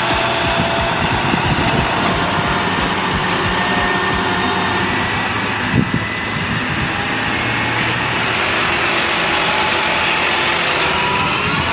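Heavy truck engine running steadily, with faint gliding whines and a brief knock about six seconds in.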